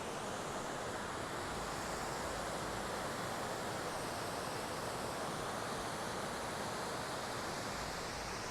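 Steady rushing of a waterfall, an even wash of water noise with no breaks.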